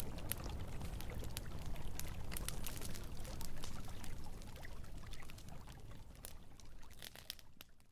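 Campfire crackling with frequent sharp pops over the steady rush of flowing river water, all fading out over the last two seconds.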